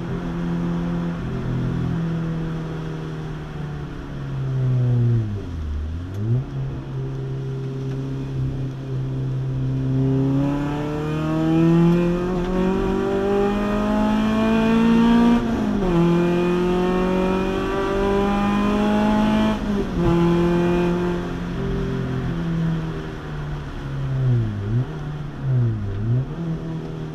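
The engine of a 2005 Renault Clio 182 Trophy, a 2.0-litre four-cylinder, heard from inside the cabin while it is driven on track. There is a quick dip and recovery in revs about five seconds in, then a long climb in revs from about ten seconds in, broken by two upshifts, and two more quick rev dips near the end.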